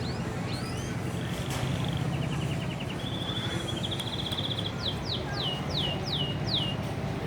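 Domestic canary singing: a few rising chirps, then fast rolling trills at several pitches, ending with a run of six quick descending whistles. A steady low hum runs underneath.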